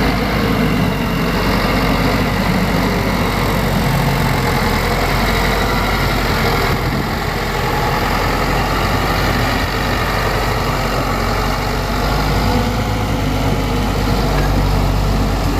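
Heavy diesel earthmoving machine engine running steadily.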